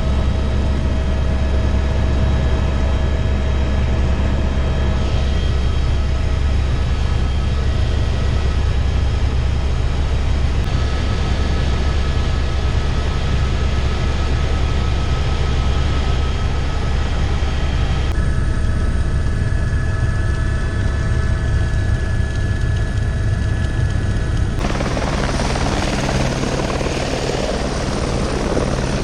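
Helicopter running: a loud, steady low drone of rotor and engine. Its tone shifts abruptly about two-thirds of the way through and again near the end.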